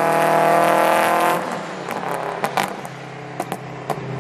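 Supercharged Toyota GT86 flat-four, on cat-less unequal-length headers and a single-exit titanium exhaust, pulling steadily under throttle. About a second and a half in, the note drops as the throttle closes, and the exhaust pops sharply several times on the overrun.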